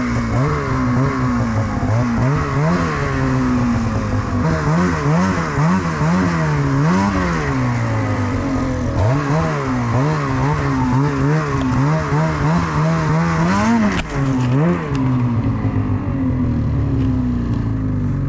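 Snowmobile engine running hard, its pitch rising and falling again and again as the throttle is worked on and off.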